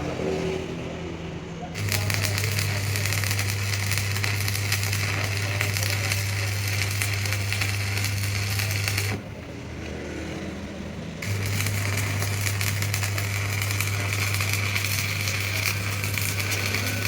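Truck axle turning on a lathe while a cutting tool shaves the steel: a steady hum with dense crackling chatter. It breaks off about nine seconds in and starts again about two seconds later.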